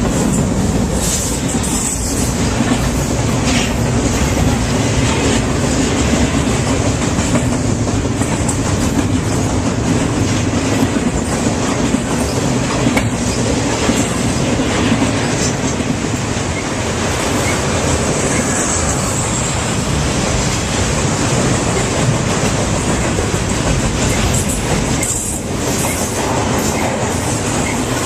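Train rolling past: a steady rumble with wheels clacking over rail joints and a few brief high wheel squeals.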